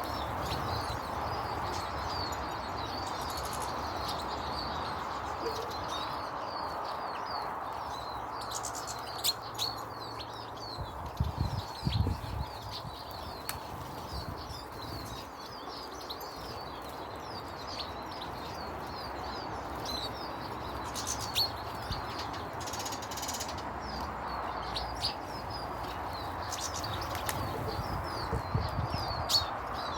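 Small birds chirping rapidly and continuously, with a few short thumps about a third of the way in, around two-thirds and near the end.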